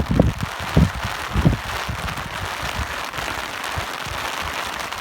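Steady hiss of falling rain, with low gusts of wind buffeting the microphone three times in the first second and a half before the rain goes on more evenly.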